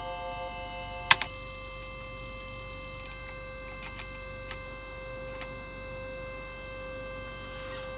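Electronic FM-synthesis tones from a PC-98 sound board holding a sustained chord of steady notes. About a second in, a sharp click switches the chord to a new set of held tones, and a few faint ticks follow.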